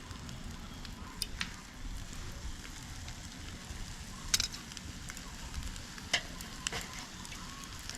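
Fish grilling over a fire: a steady sizzle with a few sharp pops and crackles, the loudest about four and a half seconds in.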